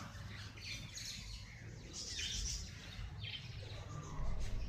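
Wild birds chirping in short clusters of high notes, about one burst every second or so, over a low rumble that swells near the end.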